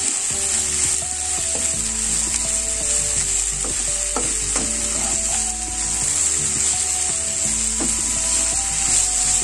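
Sliced okra frying in hot oil in a pan, sizzling steadily while it is stirred and mixed.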